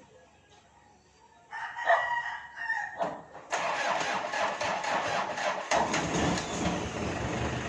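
A rooster crows briefly, then a hard-starting engine, short of fuel in its hose, is cranked with a loud noise about three and a half seconds in and catches near six seconds, settling into a steady run.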